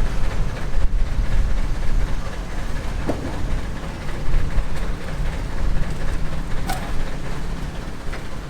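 A steady low rumble and noise, like a vehicle in motion, with a few faint clicks.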